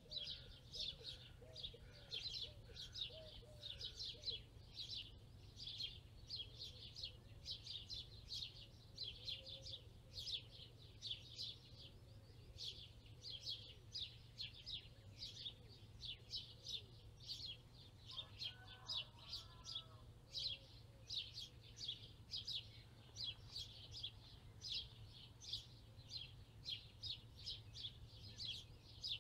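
Birds singing: a rapid, unbroken string of short high chirps, with fainter lower warbling notes and a low steady hum beneath. A brief louder call cuts in about two-thirds of the way through.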